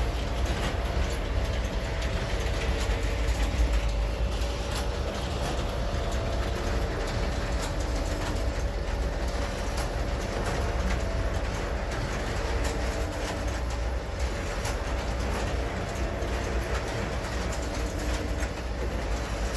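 Freight train's open-top gondola cars rolling past at steady speed: a continuous low rumble with the wheels clicking over the rail joints.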